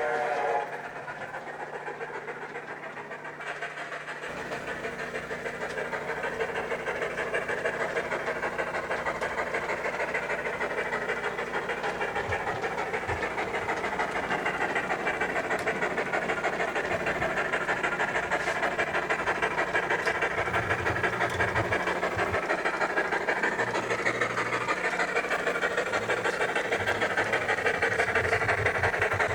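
Model train running on layout track: a steady clatter of wheels and motor with a rapid flutter. A model train whistle cuts off about half a second in.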